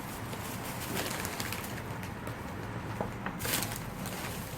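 A person eating close to the microphone: chewing with short, crisp crunches, the loudest a little past three seconds in.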